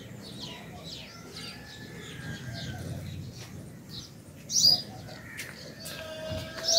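Small birds chirping and calling over and over, with two louder, sharp calls, one about halfway through and one near the end.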